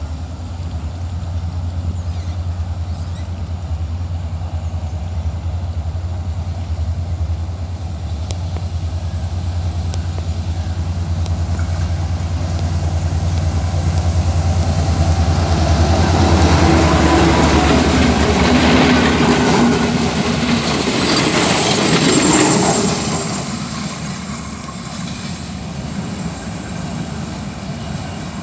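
Class M7 diesel locomotive hauling a slow train past: a steady low engine drone that builds as it approaches, then a rattling clatter of wheels and coaches at its loudest a little past the middle, fading as the train moves away.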